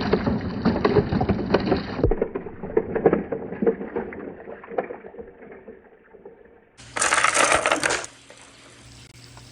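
Marbles rolling and clacking down a marble run: a rapid patter of small clicks and knocks that thins out and fades over the first five seconds. About seven seconds in, a louder, denser clatter lasts about a second and stops abruptly.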